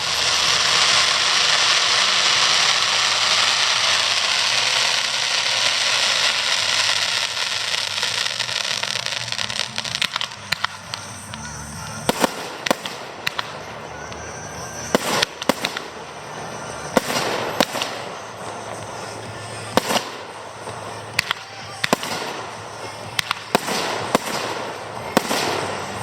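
Fireworks display: a dense, loud hissing crackle for about the first twelve seconds, then a run of separate sharp bangs as shells burst. Music plays underneath.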